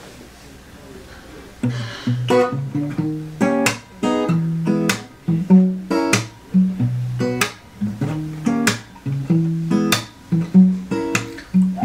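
Acoustic guitar alternating picked bass notes with strummed chords in a steady rhythm, coming in almost two seconds in after faint hiss.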